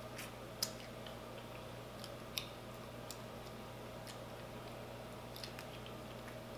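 Faint, irregular small clicks and ticks over a steady low hum. A sharper click comes a little over half a second in and another about two and a half seconds in.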